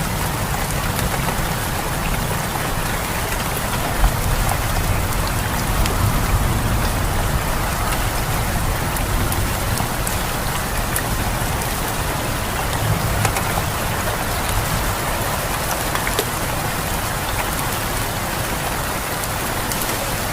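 Steady heavy rain falling on surfaces, a continuous hiss full of fine drop ticks over a low rumble, with one brief sharper knock about four seconds in.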